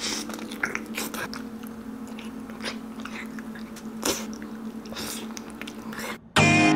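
Close-miked mouth sounds of a person eating braised pork trotter: wet lip smacks, biting and chewing, with a steady low hum underneath. Near the end it cuts off abruptly and loud music starts.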